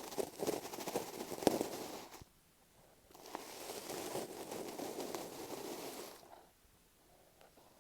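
Masking tape stuck over an earphone microphone being scratched and rubbed close up, a dense crackle with small clicks. It comes in two spells: one stopping about two seconds in, and another from about three seconds to just past six seconds.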